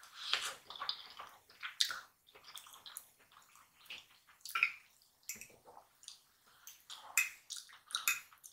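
Close-up wet mouth sounds of chewing a forkful of garlic mashed potatoes: irregular squishy smacks and clicks with short pauses between them.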